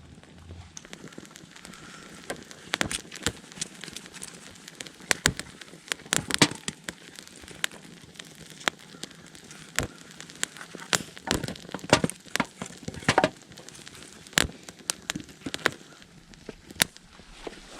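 Wood fire crackling, with irregular sharp pops over a low hiss.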